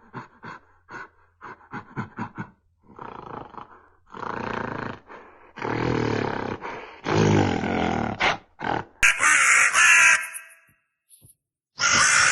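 Animal calls: a quick run of short grunts, then several longer roaring calls of about a second each, then a higher, brighter call. A short silence follows, and a new call starts near the end.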